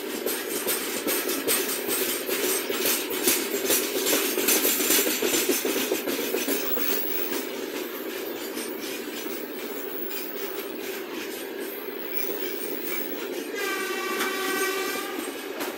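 Freight train of open wagons rolling past close by, its wheels clattering over the rail joints, loudest in the first six seconds. A high-pitched tone sounds for about two seconds near the end.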